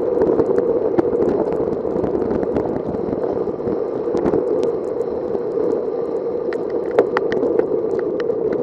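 Steady rushing of wind and tyre noise from a bicycle ride on wet roads in the rain, with scattered sharp ticks and rattles. The ticks come more often in the second half, and the loudest is about seven seconds in.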